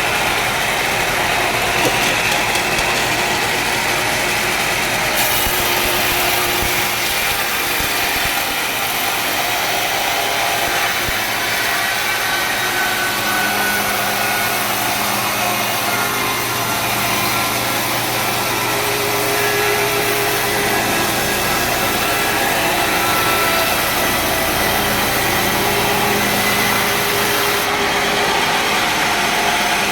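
Sawmill machinery running steadily: a continuous engine-driven mechanical drone, with faint tones shifting in pitch through the middle.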